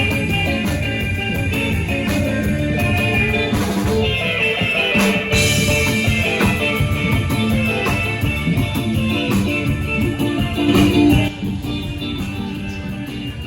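A live 1960s surf rock band playing, with electric guitar over a drum kit.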